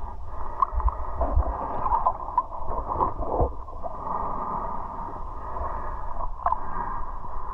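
Muffled river water moving and gurgling, with a steady low rumble and a few scattered knocks and splashes.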